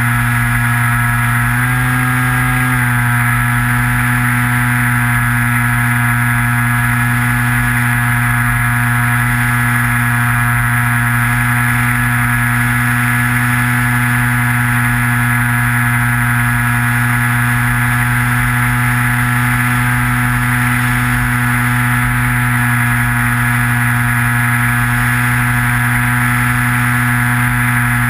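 Electric motor and propeller of a Skywalker FPV model plane, heard from the onboard camera, running at a steady cruise whine. The pitch shifts briefly about two seconds in, then holds steady. A rough low rumble runs underneath.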